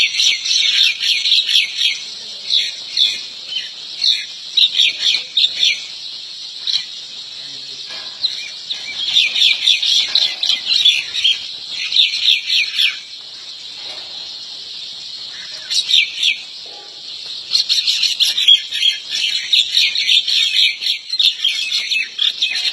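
Birds chirping: rapid runs of short, high chirps that come in bursts, with a few quieter pauses between them.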